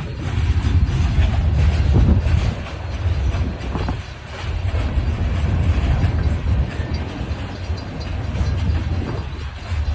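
Huron & Eastern freight train rolling past, a low rumble of cars and wheels on the rails that swells and dips.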